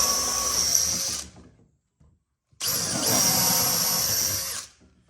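Electric drill boring pilot holes in a wooden board, in two runs of a second or two each, with a pause between them. The second run spins up at its start and winds down at its end.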